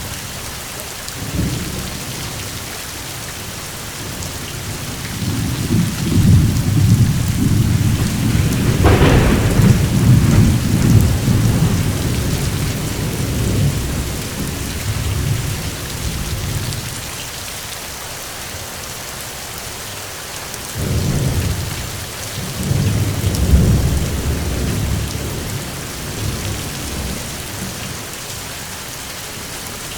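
Steady rain hissing, with two long peals of rolling thunder: the first builds about five seconds in and breaks with a sharp crack near its loudest point, and the second comes about two-thirds of the way through.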